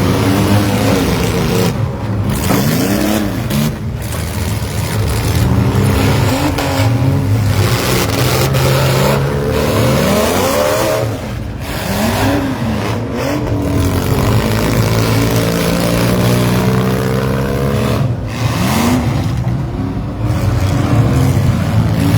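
Engines of several vans, SUVs and mini trucks revving hard in a demolition derby heat, their pitch climbing and falling again and again over a steady low engine drone.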